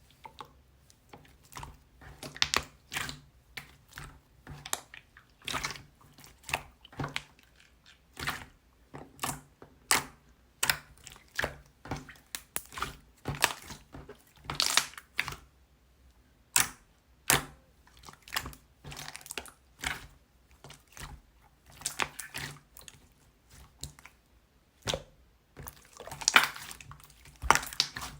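Handmade peach mogumogu slime being squished and pressed by hand: an irregular run of sticky crackles and pops, one to three a second.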